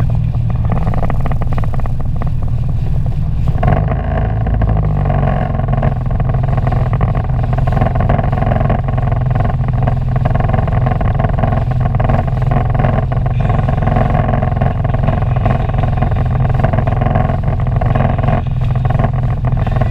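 Sea-Doo personal watercraft engine running steadily under way, its sound shifting a little about four seconds in.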